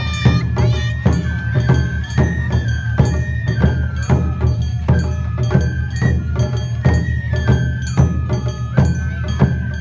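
Live Japanese festival dance music: a high flute-like melody holding and stepping between notes over a quick, even beat of percussion strikes.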